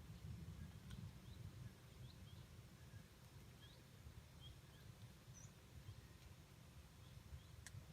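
Faint outdoor ambience: small birds giving scattered short, high chirps over a low rumble.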